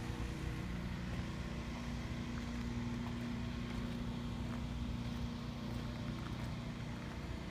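An engine idling steadily, heard as a constant low hum with one steady tone running through it.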